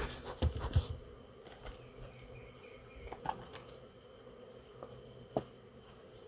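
Honeybees buzzing around a hive entrance, a faint steady hum. A few sharp knocks in the first second, and single clicks later on.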